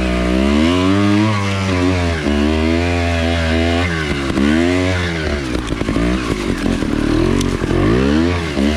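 Trials dirt bike engine revving up and down, its pitch rising and falling four or five times as the rider works the throttle on a steep trail climb.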